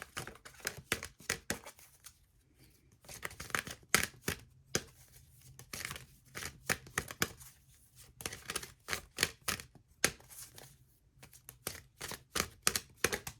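Oracle cards being shuffled by hand: rapid papery clicks and flicks in several bursts with short pauses between them.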